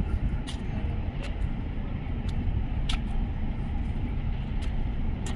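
Container freight train rolling past on the nearest track: a steady low rumble with sharp clicks about once a second.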